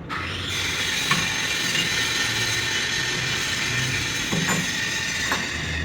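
Workshop machine running steadily with a high metallic whine and a few light clicks, then stopping near the end.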